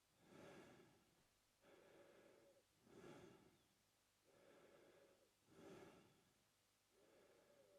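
Quiet, slow mouth breathing by an adult man: about three full breaths, each a softer breath followed by a louder, hissier one.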